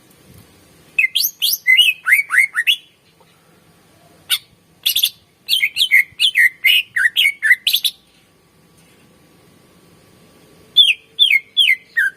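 Greater green leafbird (cucak ijo) singing in loud bursts of quick, sharp whistled notes, many sliding downward, with pauses between the phrases. The longest run comes about five to eight seconds in, and a short phrase of three or four falling notes comes near the end.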